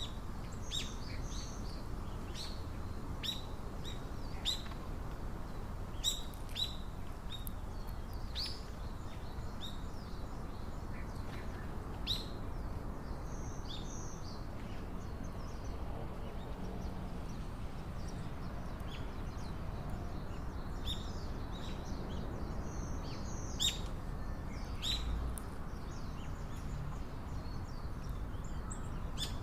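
Small wild birds calling in many short, sharp, downward-sweeping chirps, scattered irregularly, over a steady low background rumble.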